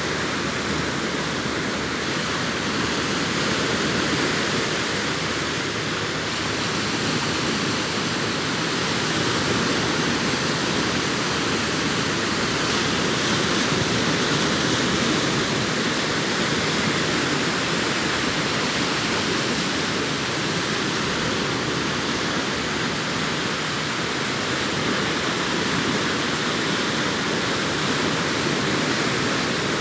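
Sea surf breaking and washing up a sandy beach: a continuous rush of waves that swells and eases slowly every few seconds.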